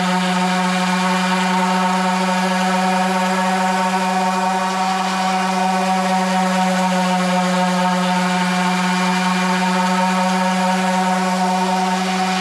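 Random orbital sander running at a steady speed, a constant motor hum, sanding along an inside corner.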